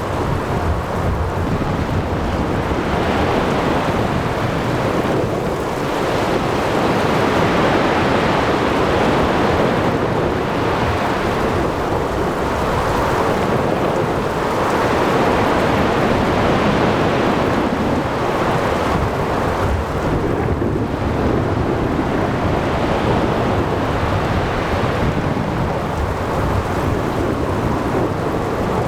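Ocean thunderstorm: a dense, steady wash of rain, wind and surf that swells and eases every few seconds, with low thunder rumbling underneath.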